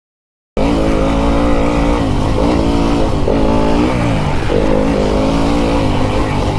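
Fantic enduro dirt bike engine revving up and falling back repeatedly as it is ridden around a motocross track, heard from the onboard camera with a rushing noise underneath. The sound cuts in abruptly about half a second in, after dead silence.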